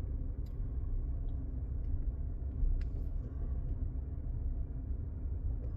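Steady low rumble of a vehicle heard from inside the cab with the windows rolled up, with a few faint small ticks.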